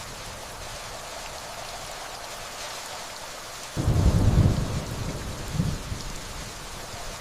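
Steady rainfall hissing, with a low rumble of distant thunder that sets in abruptly a little past halfway and dies down after a second, followed by a smaller second rumble.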